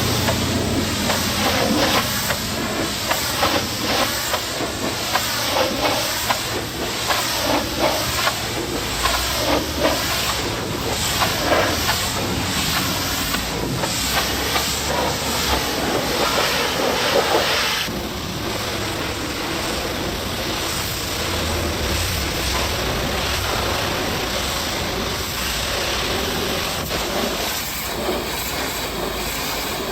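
Pressure washer spraying water against a truck: a loud, continuous hiss that wavers and pulses for most of the time, then turns steadier and slightly quieter near the last third.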